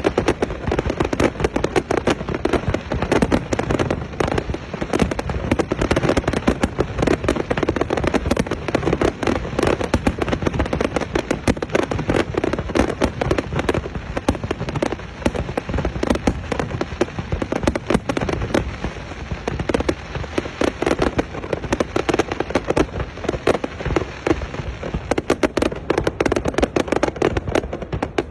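Fireworks display going off continuously: a dense run of bangs and crackling reports, many each second without a break.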